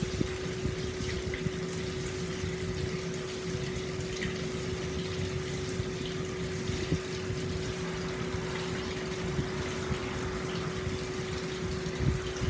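Hot spring water pouring steadily into an open-air bath, a continuous splashing flow, with a steady low hum underneath.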